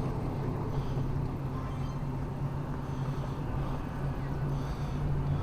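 A car's engine and road noise, heard inside the cabin as a steady low hum while driving.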